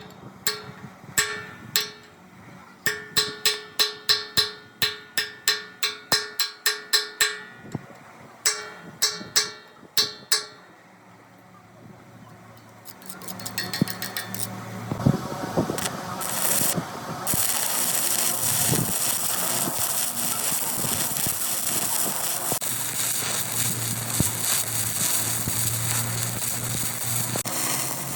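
A hammer striking steel in quick, ringing blows, about three a second, for roughly ten seconds. After a short lull, a loud, steady rushing noise from a workshop tool or machine builds up and holds.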